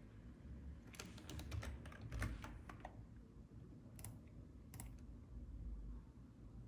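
Computer keyboard keys tapped in a quick run of clicks about a second in, followed by a couple of single clicks, over a faint low hum.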